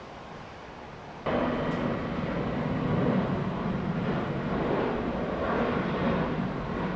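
Jet airliner engine noise, a dense steady rush that comes in suddenly about a second in; before it there is only a faint hiss.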